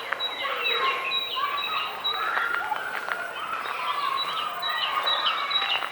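Many small birds chirping and calling at once in dense, overlapping bursts, with a short high note repeated steadily underneath.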